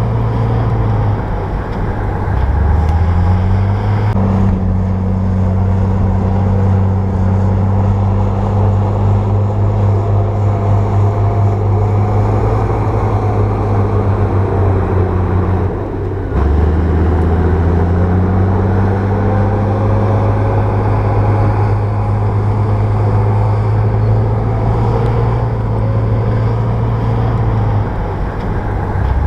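Bulldozer diesel engine working steadily under load. Its pitch climbs about three seconds in, dips briefly and climbs again about halfway through, and falls off near the end.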